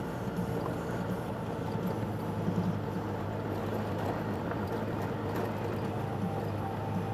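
Motorcycle engine running steadily at low speed, a constant low hum with no change in pitch.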